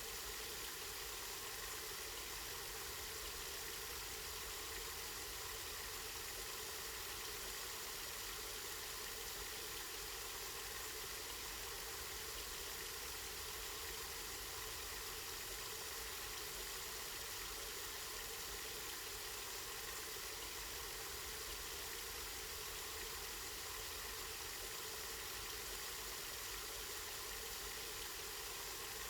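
Spring water running steadily, a continuous even rush of flowing water.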